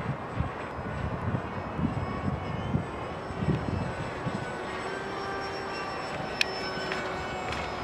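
Electric motor and propeller of a radio-controlled seaplane in flight: a thin whine that drifts slowly in pitch as the plane flies. Wind buffets the microphone underneath, and there is a single sharp click about six and a half seconds in.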